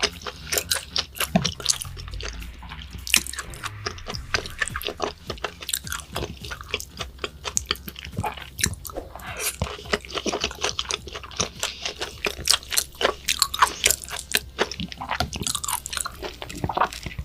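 A person chewing food close to the microphone: a steady stream of quick wet clicks and smacks of mouth and teeth.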